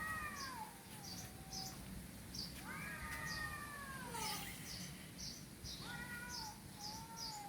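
Domestic cat meowing: three long drawn-out meows, each rising and then sliding down in pitch, with quick high chirps repeating in the background.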